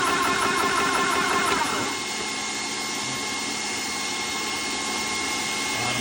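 TOAUTO portable PCP air compressor running. About two seconds in, its pumping hum drops away and the level falls a little, leaving a steady whir with a thin high whine.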